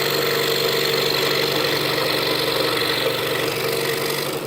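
Scroll saw running steadily and cutting half-inch pine with a Pegas modified-geometry No. 5 blade. The sound eases slightly near the end.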